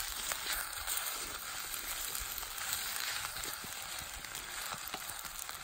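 Rice frying in meat fat in a frying pan, a steady sizzle with a few faint clicks of stirring.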